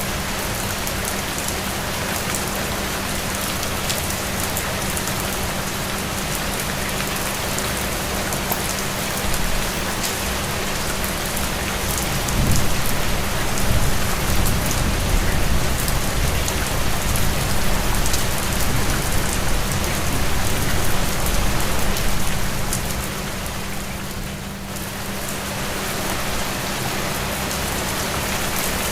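Steady rain falling and pattering on a surface, a dense hiss full of small drop ticks. About midway a low rumble swells for several seconds, then eases off.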